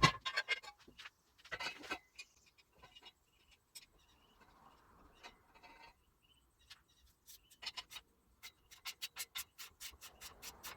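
A metal grinder stand being put together by hand: runs of sharp, evenly spaced clicks, about four a second, with rubbing and scraping between them.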